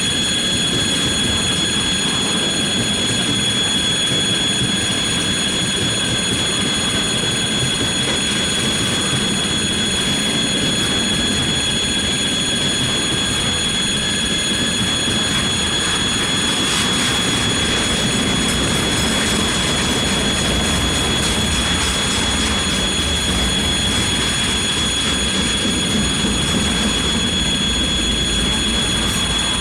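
Freight train of wagons rolling past steadily, a continuous rail rumble with a steady high-pitched whine over it.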